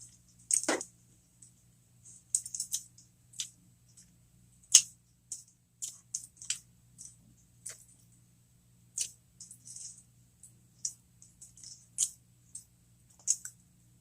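Close-miked chewing of a cheeseburger jalapeño popper: an irregular run of short, sharp, wet mouth clicks, a few of them louder.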